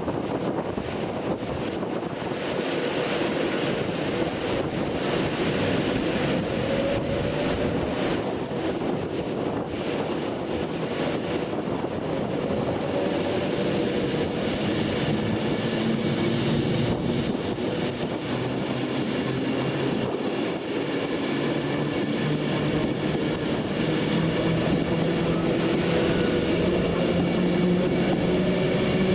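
Train running, with a steady rumble and whining tones that slowly rise in pitch, growing a little louder over the last few seconds.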